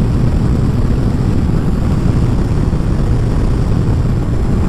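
Kawasaki ZZR1400 inline-four motorcycle at road speed, a steady engine drone under a dense rush of wind noise.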